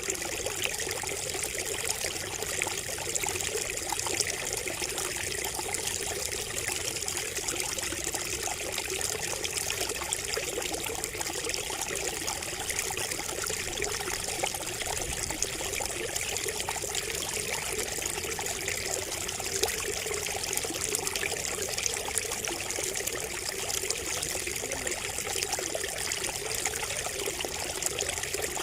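Water trickling steadily from a bamboo spout, an even, unbroken flow.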